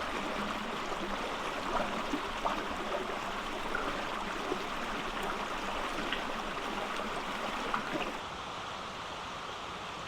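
Flowing water, like a small stream, running steadily with small splashes and ticks through it.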